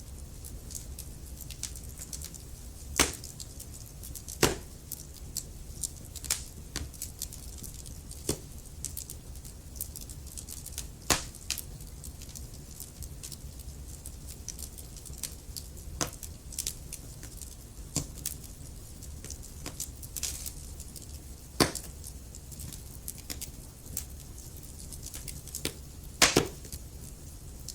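Wood fire crackling in a fireplace: burning logs give off irregular snaps and pops, a few of them louder, over a steady low rumble of the flames.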